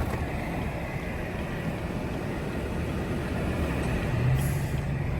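Truck engine running at low speed, a steady low rumble; a steady low hum comes in about four seconds in and the sound grows slightly louder toward the end.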